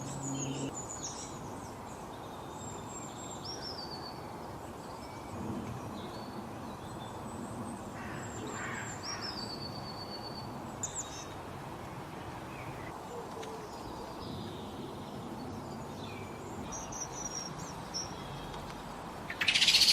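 Small garden birds giving scattered short, high chirps and whistles over a steady background hiss of outdoor noise. Near the end comes a louder, harsher, noisy sound.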